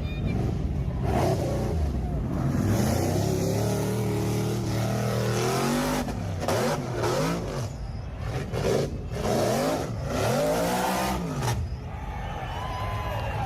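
Car engine running, its pitch rising and falling several times as it revs or passes by.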